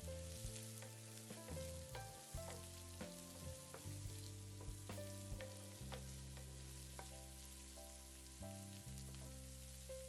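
Chopped onion frying in hot oil in a pan: a faint, steady sizzle.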